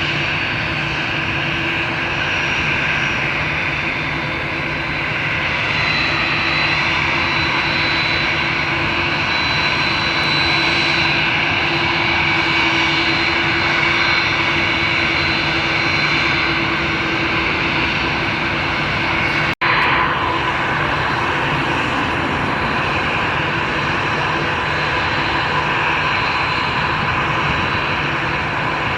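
Jet airliner engines running with a steady roar and a high whine. The sound cuts out for an instant about two-thirds of the way through, then carries on.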